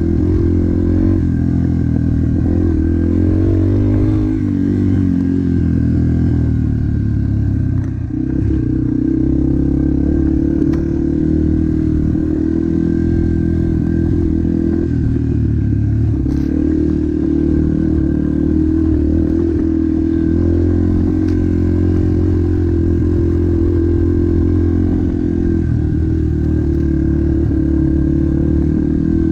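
Motocross bike engine running continuously, its revs rising and falling, with a short dip about eight seconds in.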